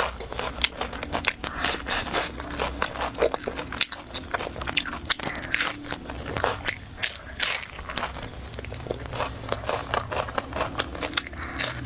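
Crisp crackling bites and chewing of a flaky pastry, close to the microphone, with many short sharp crunches. Near the end the pastry's layers crackle as it is pulled apart by hand.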